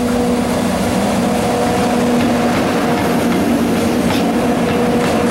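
Two EF64 1000-series electric locomotives coupled together, hauling a tank-car freight train slowly past close by. A loud, steady electric hum of several held notes sits over the rumble of the wheels, with faint clicks over the rail joints as the tank cars follow.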